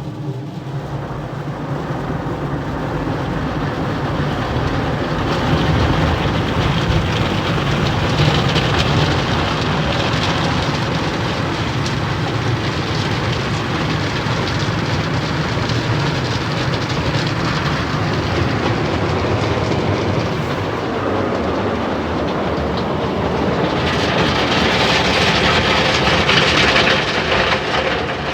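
Rotating soft-touch car-wash brushes of a D&S IQ gantry scrubbing over the car, heard from inside the cabin as a loud, steady churning noise. It starts suddenly and turns harsher near the end, where it is "not a nice noise".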